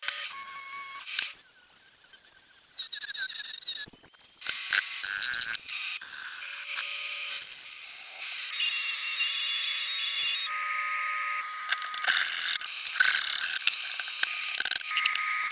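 Metalworking tool sounds on a rusty steel cleaver being restored: a changing run of scraping, clicking and whining that shifts every second or two.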